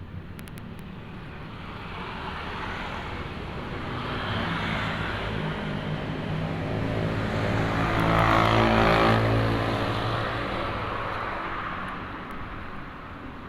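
A motor vehicle passing by: its engine grows louder to a peak about eight or nine seconds in, then fades away.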